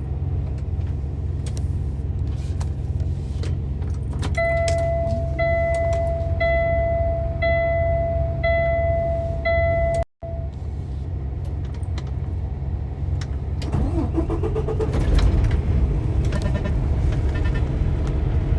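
Inside a Kenworth T680 semi-truck cab, a low rumble runs under a dashboard warning chime, which beeps about six times, roughly once a second, from about four seconds in. About three-quarters of the way through, a rising whine and a louder rumble follow as the diesel engine is cranked and restarted.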